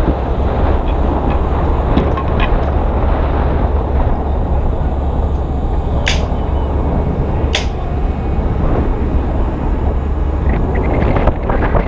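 Strong wind buffeting the microphone: a dense, steady rumble. Two sharp knocks cut through it, about six and seven and a half seconds in.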